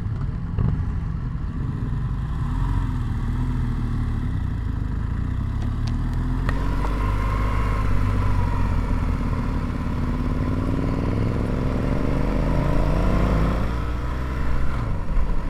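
Motorcycle engine running on the road under low wind rumble. Its pitch climbs steadily through the second half as it accelerates, then falls back near the end.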